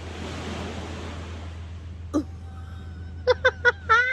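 A woman taking a big bite of toast and reacting with her mouth full: a breathy rush of noise, then three quick high-pitched "mm" sounds and a longer one near the end.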